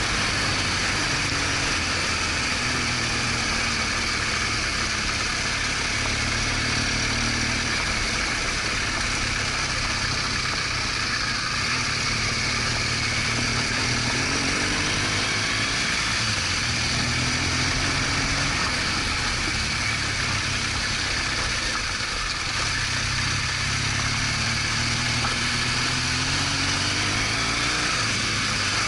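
BMW R1200GS Adventure's flat-twin engine running under way, its pitch rising and falling with the throttle, under a steady rush of wind and road noise.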